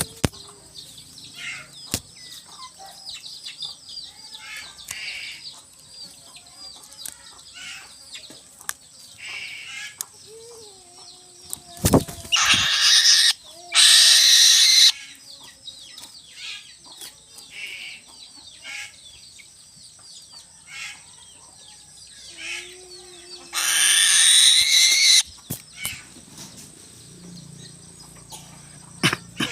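Bird wings flapping in three loud bursts of about a second each, over scattered short high chirps of small birds and a few lower sliding calls, with a steady high-pitched whine underneath.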